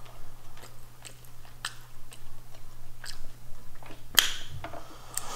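Close-miked chewing and mouth sounds of a person eating mussels, with scattered soft clicks. About four seconds in, mussel shells clack in the dish with a sharper click.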